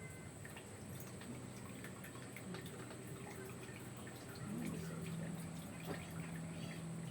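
Laksa stock being strained through a sieve: liquid dripping and trickling, with small clicks. A low steady hum comes in about four and a half seconds in.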